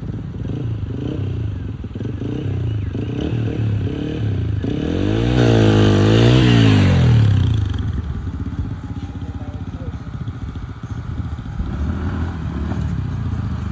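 Motorcycle engine running on the move, its pitch wavering up and down with the throttle. It swells louder and rises then falls in pitch in the middle.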